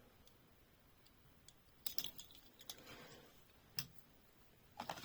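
A few faint, sharp clicks and a soft rustle: die-cast toy cars and their plastic packaging being handled.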